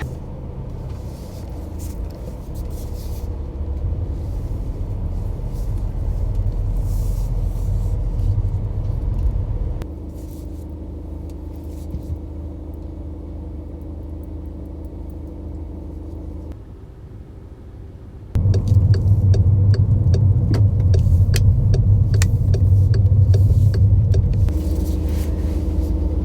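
Car on the road: a steady low rumble of engine and tyres. It comes in several sections that change level abruptly, and is loudest from about two thirds of the way in.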